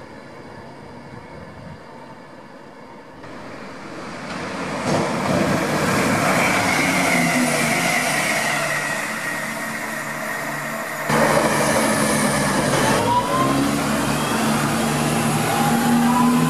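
Passenger trains at station platforms, in three abrupt cuts. The first few seconds are fairly quiet. Then a CrossCountry Class 170 Turbostar diesel multiple unit rushes through at speed with a falling whine. From about eleven seconds in, London Midland multiple units are louder, with a steady low hum and rising whines as they pull away.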